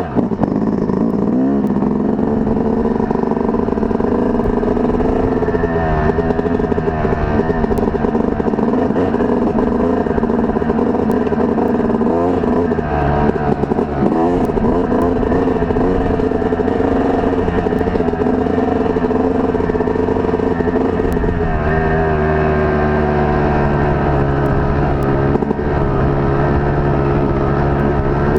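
Off-road motorcycle engine running while riding a rough trail, its pitch rising and falling with the throttle; about two-thirds of the way through it settles to a steadier, lower note.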